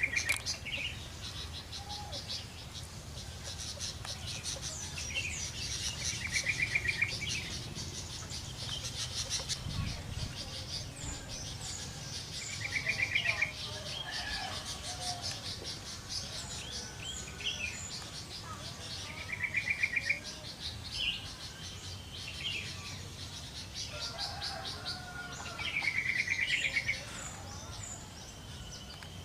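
Yellow-vented bulbuls (trucuk) singing in full voice among other chirping birds, with a short rapid trill repeating about every six and a half seconds and insects buzzing.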